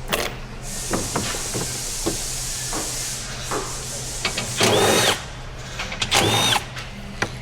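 Handheld power tool running in two short bursts, each spinning up to a steady whine and winding down, among scattered clicks and knocks of tools being handled.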